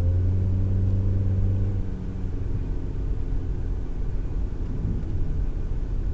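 Car driving, heard from inside the cabin by a dash cam. An engine hum is clear for the first two seconds, then eases off into a steady low road rumble.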